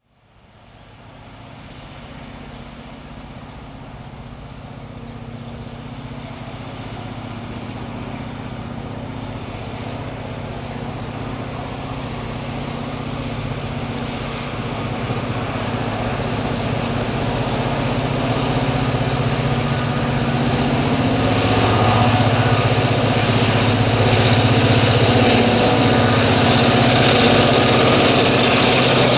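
EMD G26 diesel locomotive's two-stroke engine roaring under full load while hauling a loaded freight train up a slight grade. It grows steadily louder.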